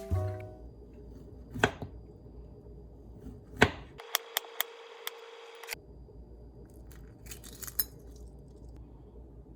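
Scattered light clicks and knocks over quiet room tone: two separate knocks, then a quick run of clicks, then a few faint ones near the end. Music fades out at the very start.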